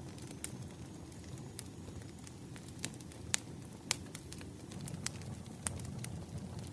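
Wood fire crackling: irregular sharp pops and snaps, loudest about three and a half and four seconds in, over a steady low rumble of burning logs.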